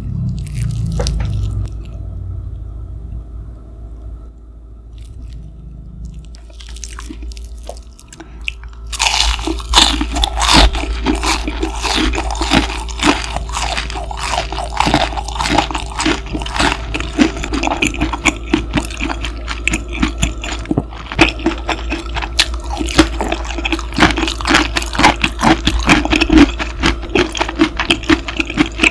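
Close-miked chewing of a crispy breaded pork cutlet (donkatsu), rapid crunching and crackling from about nine seconds in, over a steady low machine hum that was unintentionally recorded.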